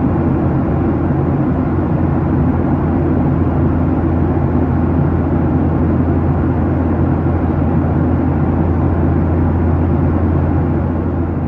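Steady cabin noise inside a Boeing 737-800 near the end of its climb: the even drone of its CFM56-7B turbofan engines and the rush of air over the fuselage.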